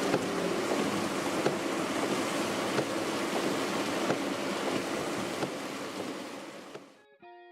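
Typhoon storm noise: a steady dense rush of wind and rain with scattered sharp taps, fading out near the end as electric guitar music starts.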